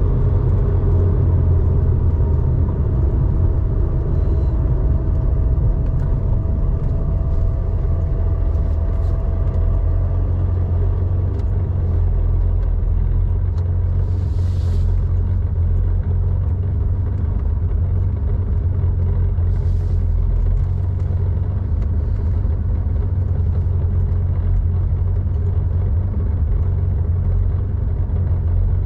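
1987 Porsche 911's 3.4-litre air-cooled flat-six running steadily through a SCART two-into-one-out muffler while driving, a deep, even exhaust note. There are two brief hisses, about halfway through and again about two-thirds of the way in.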